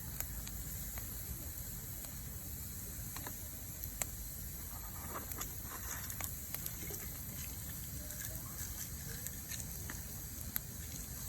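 Wood campfire crackling: scattered sharp pops over a steady hiss and low rumble.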